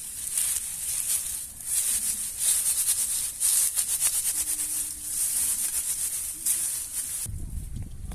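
Campfire embers being raked and shuffled: gritty scraping strokes about once a second, with small crackling clicks among them, stopping near the end.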